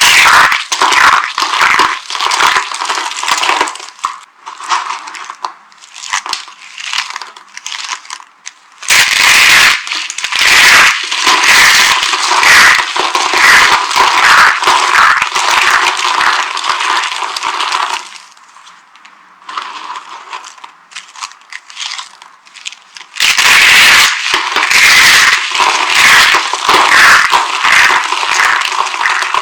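Dry soap crushed and crumbled by hand, giving dense crunching and crackling in three long loud spells with sparser, quieter crackles between them.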